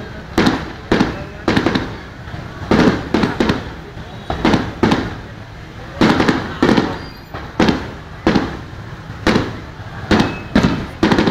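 Aerial fireworks bursting in a continuous barrage: loud sharp bangs about two a second, some coming in quick pairs or triplets, each trailing off in a short rumble.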